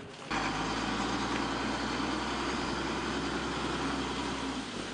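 Engine running steadily at an even speed, with a low hum under a broad noisy wash; it cuts in suddenly just after the start and stops shortly before the end.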